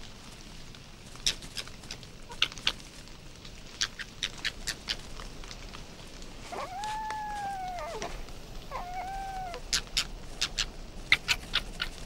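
A fox gives two drawn-out, rising-then-falling calls, the first about a second and a half long and the second shorter, a little over halfway in. Scattered sharp clicks and snaps come throughout.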